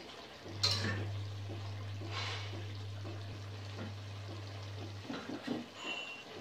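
Chicken frying in an open kadai over a gas flame, a faint sizzle with a few light ticks, under a steady low hum that starts about half a second in and stops near the end.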